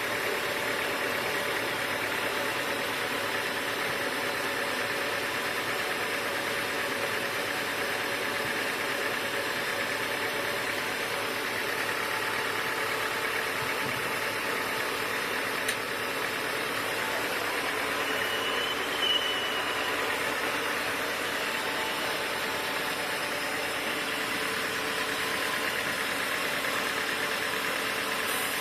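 Sawmill machinery running steadily, a constant mechanical hum with a few steady tones. There is a short click about halfway through and a brief high-pitched squeal a few seconds later.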